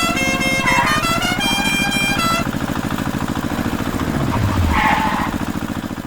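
An engine running with a fast, even put-put beat, with a string of horn honks at several different pitches in the first two and a half seconds. A low tone drops in pitch about four seconds in, and the engine fades out at the very end.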